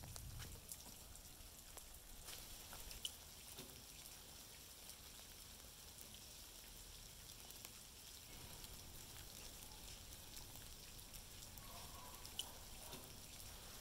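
Faint steady rain falling, with a few scattered drips ticking now and then.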